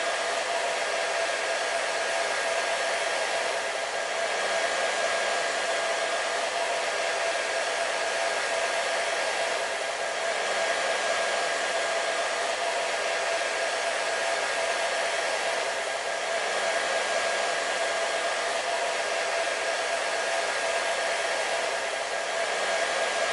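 Hair dryer running continuously: a steady rush of air with a constant motor whine, no change in speed.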